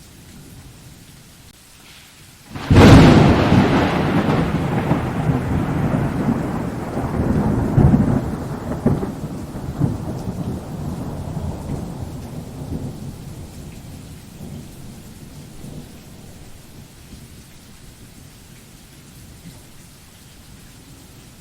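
A thunderclap: a sharp crack about two and a half seconds in, then a long rolling rumble with a few further peaks that dies away over about ten seconds. Steady rain hisses underneath.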